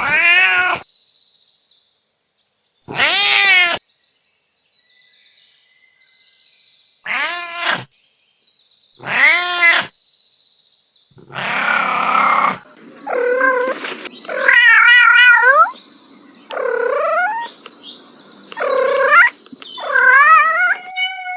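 Domestic cats meowing over and over, about ten separate calls, each under a second or so long, several with a pitch that bends down and back up.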